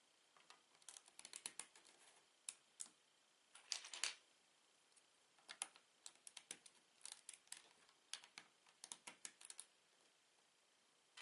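Plastic Lego bricks being handled, clicking and clattering against each other in quick irregular clusters of small clicks with short pauses between.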